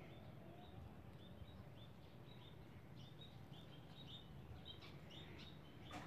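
Faint outdoor ambience: small birds chirping in quick, short, repeated notes in the background over a low steady rumble, with a single click near the end.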